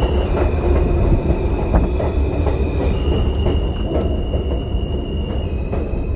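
A New York City subway train running between stations, with a heavy low rumble and clicks from the wheels over the rails. Over it sits a high steady tone that steps between two close pitches about every three seconds.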